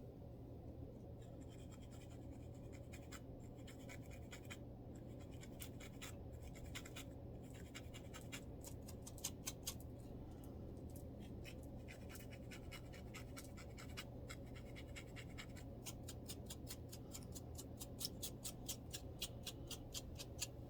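Close-up scratching on a dandruff-flaked scalp: short dry strokes in uneven bursts, becoming a quick even run of about five strokes a second near the end.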